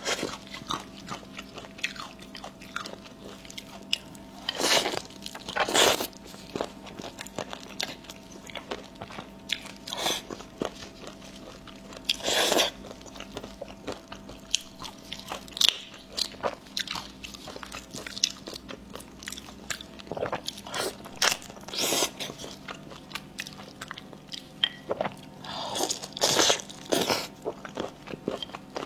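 Close-miked eating: a person chewing and biting food, with many short wet clicks and crunches and a few louder, longer bursts.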